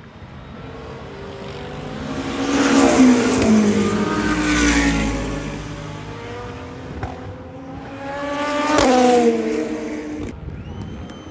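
Le Mans Hypercar prototypes passing at racing speed, twice: each engine note rises in loudness and its pitch drops as the car goes by. The first pass peaks about three to five seconds in and the second about nine seconds in. The sound changes abruptly just after ten seconds.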